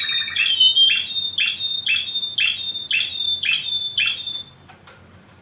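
Canary singing: a string of repeated bright chirping notes, about two a second, with a fast trill at the start. The song stops abruptly about four seconds in.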